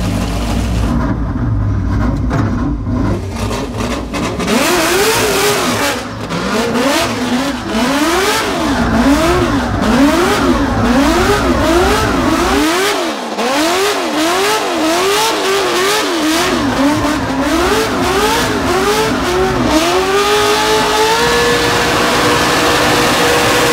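5.7-litre LS V8 with individual throttle bodies and equal-length headers, in an FD RX-7 drift car, revved up and down about once a second while the car spins donuts on the throttle. Near the end the revs climb and are held steady at a high pitch.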